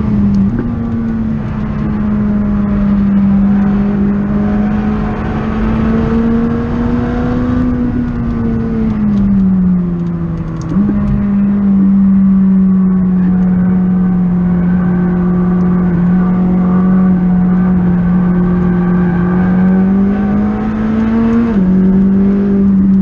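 McLaren 600LT's twin-turbo V8 heard from inside the cabin on track. The note climbs slowly under power, falls away with downshifts about a third of the way in, holds steady, then rises again and drops with an upshift near the end.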